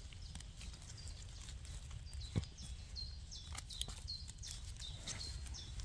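A small songbird calling over and over in short, high, downward-sliding notes, about three a second from about two seconds in, over a low rumble. A few sharp clicks and scrapes come from a small knife trimming a chanterelle mushroom, the loudest about halfway.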